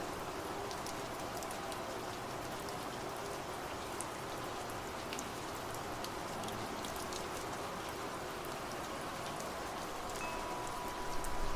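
Steady rain with scattered drops pattering on a surface. Near the end a wind chime starts ringing and a low gust of wind rises.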